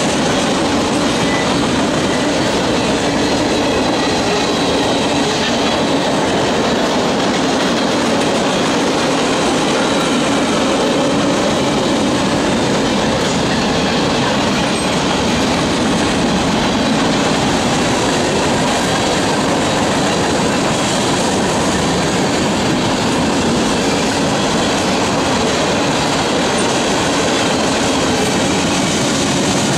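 Freight train's boxcars and tank cars rolling past on steel wheels, a steady, unbroken rumble and rattle of wheels on rail.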